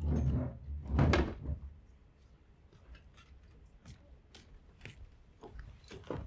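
Two loud thumps on the stage, the second about a second in and the louder, followed by a few faint clicks.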